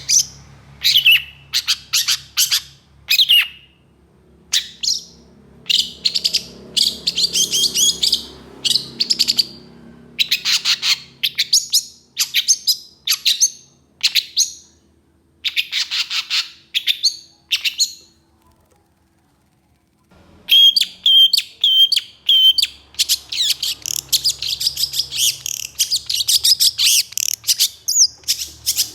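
Long-tailed shrike (cendet) singing: quick runs of harsh, chattering notes and short downward-sweeping calls. The song breaks off for about two seconds around two-thirds of the way through, then resumes denser and faster.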